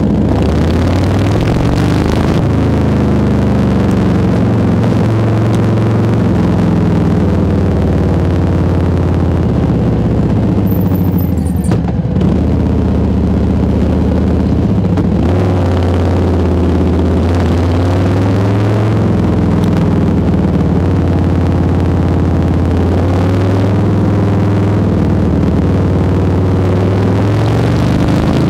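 Harley-Davidson FXBB Softail's Milwaukee-Eight 107 V-twin running loud through a Jekill&Hyde valve exhaust, its revs rising and falling again and again as the bike is ridden, with a brief lull about eleven seconds in.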